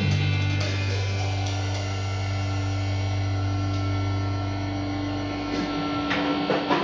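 A rock band's final chord ringing out over a steady amplifier hum as the song ends. The low end drops away after about five seconds, and a few clicks and knocks follow near the end.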